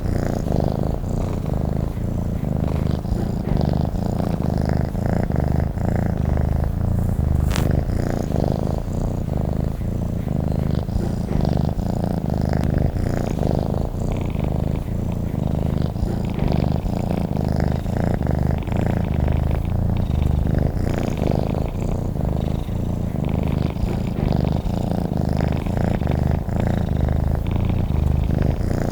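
Domestic cat purring steadily and continuously, recorded close up.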